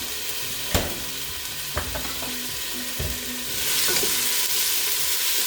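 Chopped onion, celery and garlic sizzling in hot coconut oil in a large pot, with a spoon knocking against the pot three times as it is stirred. The sizzle gets louder a little past halfway.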